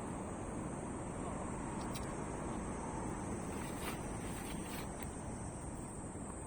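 Wood-and-thistle fire burning steadily in a fire pit, with a few faint crackling pops about 2, 4 and 5 seconds in.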